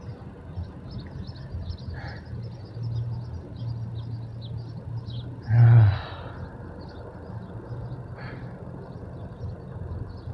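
A short, loud grunt of effort from a man exercising, about halfway through. Under it runs a steady low hum, with small birds chirping over it.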